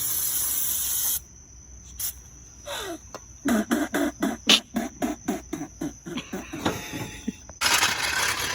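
A loud steady hiss lasting about a second, then a person's voice in a rapid run of short pitched bursts, about four or five a second, for a few seconds, and another loud hiss near the end.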